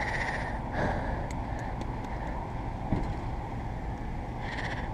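American Standard packaged air-conditioning units running: a steady hum with fan noise.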